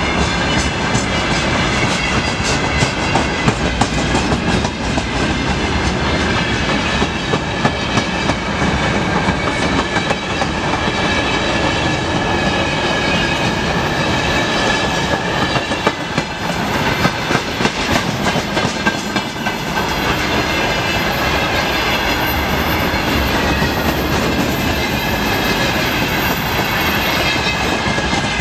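Freight train wagons, tank cars and open wagons, rolling past close by: a steady rolling rumble with the wheels clicking over the rail joints.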